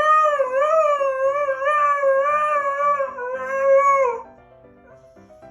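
A dog howling in one long, wavering howl that drops in pitch and stops about four seconds in.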